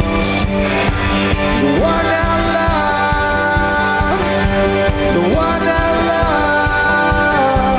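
Live rock band playing; a melody slides up into a long held note twice, over the band.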